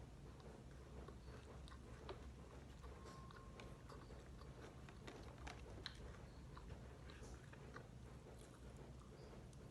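Faint chewing and small mouth clicks of a person eating, over a low steady hum.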